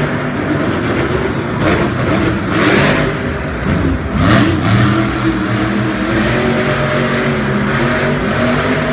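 Monster truck engine revving, its pitch rising and falling, with a few short bursts of hiss about two, three and four seconds in.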